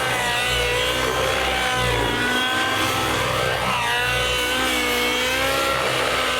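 Radio-controlled model aircraft flying, its engine note sliding up and down in pitch as it passes and turns.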